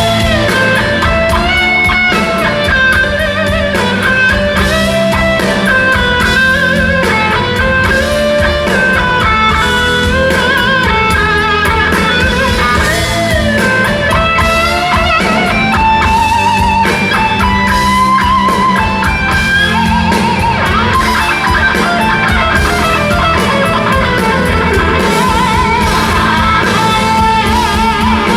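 Rock band playing live, an instrumental passage with a lead electric guitar line bending and gliding in pitch over steady drums and bass.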